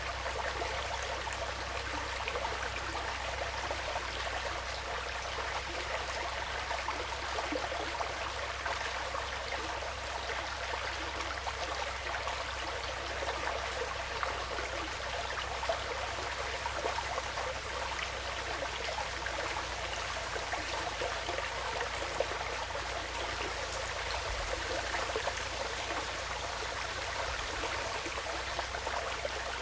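Woodland stream flowing steadily, a continuous even babble of running water.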